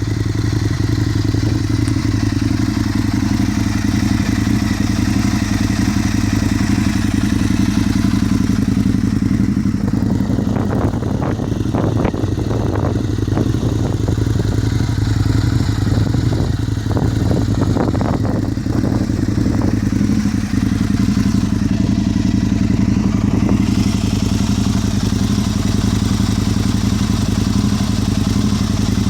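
Aprilia ETV 1000 Caponord's V-twin idling steadily through an aftermarket GPR carbon exhaust. Irregular clattering knocks come through in the middle.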